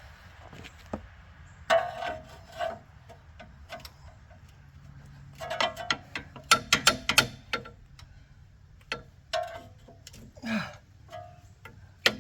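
Metal clanks and clicks of tools and suspension hardware as a front strut is fitted into place. Scattered sharp knocks, some ringing briefly, with a quick run of clicks around the middle.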